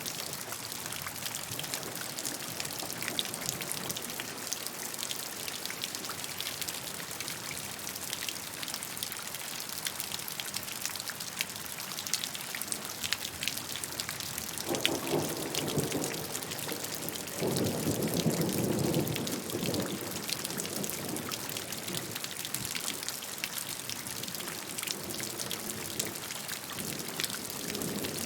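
Steady rain falling on a surface, a dense patter of individual drops. About halfway through come two louder, lower rushes, one short and one lasting a couple of seconds.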